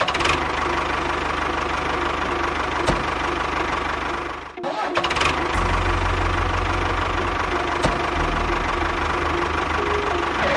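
Small engine running steadily. It breaks off briefly about four and a half seconds in, then runs on with a heavier low rumble.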